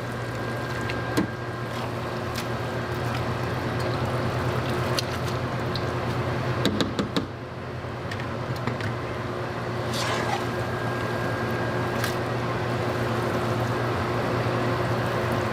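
Two tablespoons of butter melting and sizzling in a small pan: a steady hiss over a low hum, with a few light clicks of utensils.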